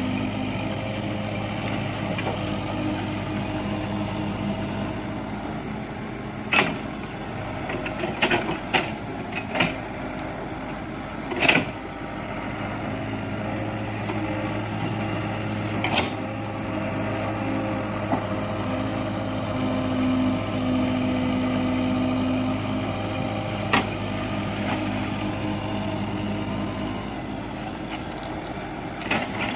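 Excavator's diesel engine running steadily, its note growing louder for a couple of seconds about twenty seconds in, with several sharp knocks from the machine at work, the loudest about eleven seconds in.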